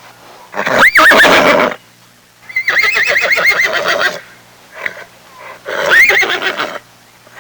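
Horse whinnying three times. The middle whinny is the longest, with a quavering pitch.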